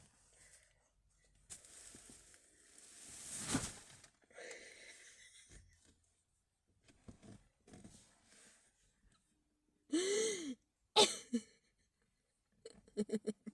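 A person's breathing and wheezy throat noises, with a short voiced grunt and a cough about ten seconds in, then a run of quick pulsing vocal sounds near the end.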